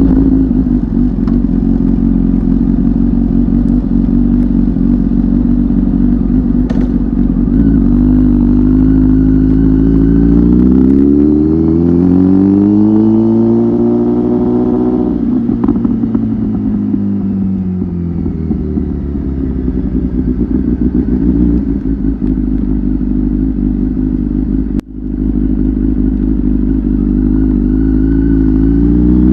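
Kawasaki ZX-10R inline-four engine running through an aftermarket Tyrants titanium muffler while riding. The engine note holds steady, rises in pitch as the bike accelerates for several seconds, then falls away as it slows; a brief sharp drop in the sound a few seconds before the end is followed by the pitch climbing again.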